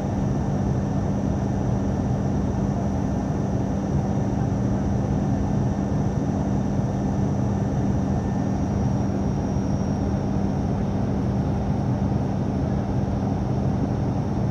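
Passenger-cabin noise of an ATR turboprop airliner in flight: a steady propeller and engine drone with a strong low hum, a broad rush of air and a faint high whine.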